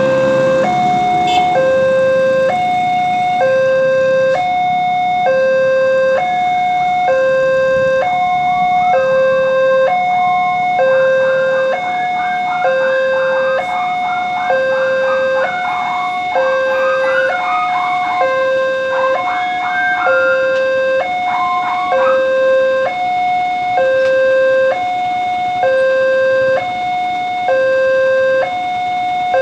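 Railway level-crossing warning alarm sounding a steady electronic two-tone, switching evenly between a lower and a higher tone a little under once a second, the signal that a train is approaching and the gates are down. A scatter of short, higher-pitched chirps comes and goes over the middle stretch.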